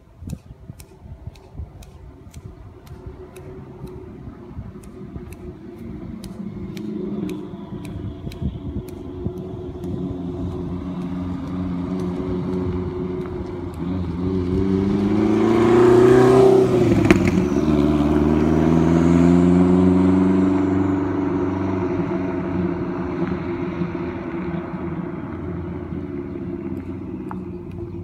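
1994 Lotus Esprit S4's turbocharged four-cylinder engine approaching and growing louder, passing close by about 17 seconds in with a sudden drop in pitch, then pulling away with a brief rise in revs and fading.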